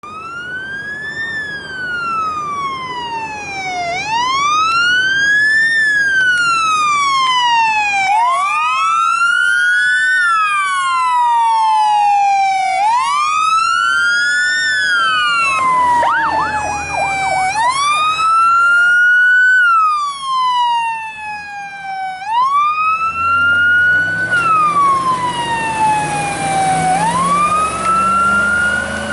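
Two fire apparatus sirens on wail, each rising and falling every four or five seconds, the second overlapping the first from about a quarter of the way in, with a brief fast yelp around the middle. Near the end a heavy truck engine rises in pitch under the sirens, with a hiss of road noise.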